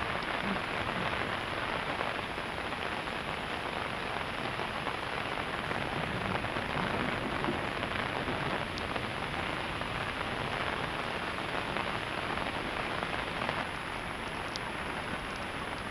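Heavy rain pouring down in a storm, a dense steady hiss that eases slightly near the end.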